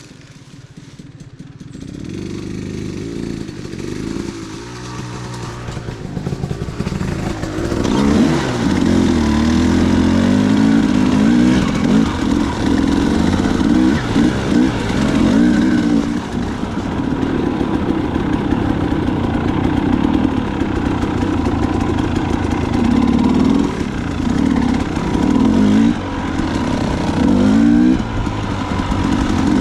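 Dirt bike engine being ridden, the throttle opening and closing so its pitch rises and falls again and again. Fairly quiet at first, it builds and is loud from about eight seconds in.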